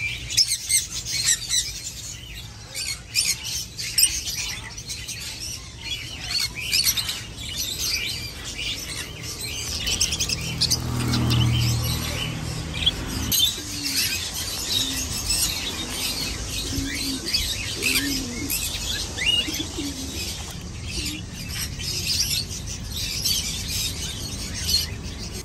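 Many small birds chirping and twittering rapidly over one another, with wings fluttering now and then.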